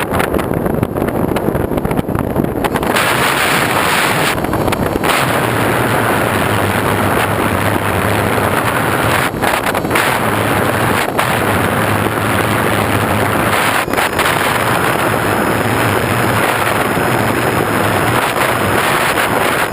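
Loud, steady wind rushing over the microphone of a moving vehicle, with a low engine hum underneath from about five seconds in and a few brief knocks.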